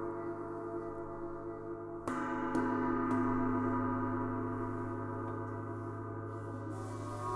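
Gong ringing with a long, slowly pulsing sustain. It is struck again about two seconds in, twice in quick succession, and once more at the very end.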